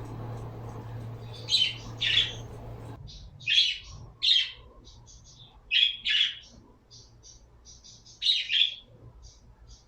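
Pet birds calling: harsh squawks, mostly in pairs a fraction of a second apart, four times, with many faint short high chirps between them. A steady low hum stops about three seconds in.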